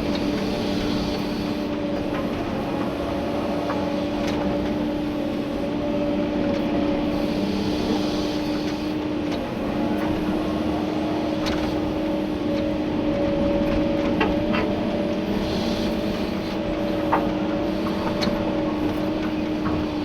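Komatsu PC290-11 excavator's diesel engine and hydraulics running steadily under digging load, a steady hum that wavers slightly in pitch, heard from inside the cab. Scattered clicks and knocks of the bucket working gravel, with one sharper knock late on.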